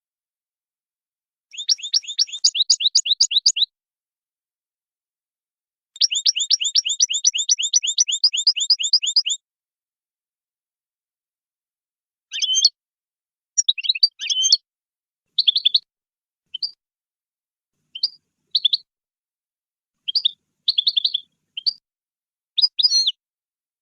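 European goldfinch singing a Wadani-style song. It gives two long, fast trills of rapidly repeated notes, then a string of short separate chirps and phrases.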